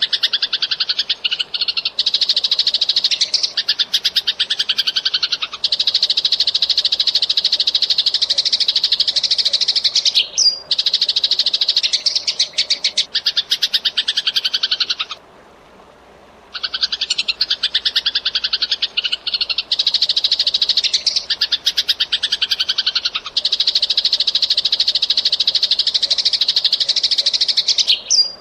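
Eurasian tree sparrows chirping fast and densely in long unbroken runs of high-pitched notes, with a pause of about a second and a half just past the middle.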